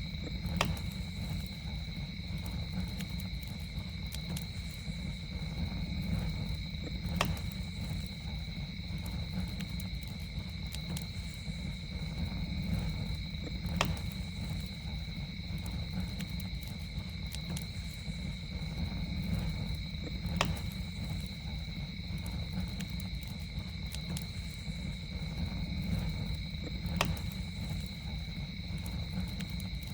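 Campfire burning with a steady low rumble and sharp pops at even intervals, about six to seven seconds apart. A steady high insect trill, like crickets, runs over it without a break.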